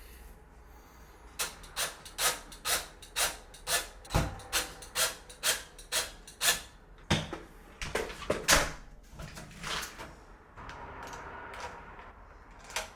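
A run of sharp clicks and knocks, about two a second, from smart-lock hardware being handled and fitted on a door, followed by a short rustling noise near the end.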